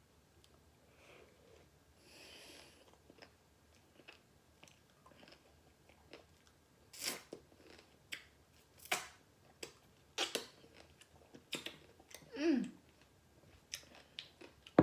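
Close-miked chewing of a bite of pickle with whipped cream: quiet mouth sounds at first, then from about seven seconds in a series of sharp wet crunches and lip smacks, with a short hum from the eater near the end.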